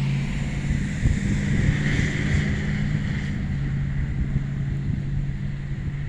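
Steady low engine hum, like a motor vehicle running close by, over a hiss of wind or traffic noise that swells for a couple of seconds around the middle.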